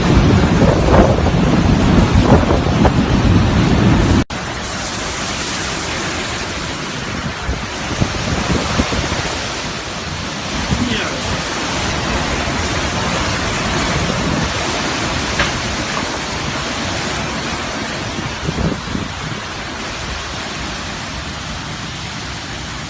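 Hurricane-force wind and rain. For the first four seconds heavy wind buffets the microphone with a low rumble; after an abrupt cut there is a steady hiss of wind-driven rain with gusts swelling and easing.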